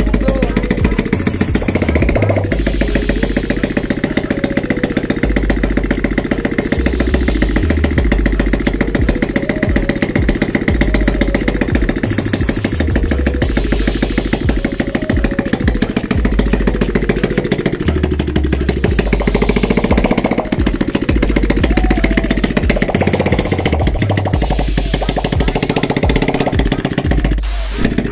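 Motorcycle engine running with no exhaust fitted, the open exhaust port giving a loud, rapid, even popping. The engine speed wavers slightly up and down as it warms up.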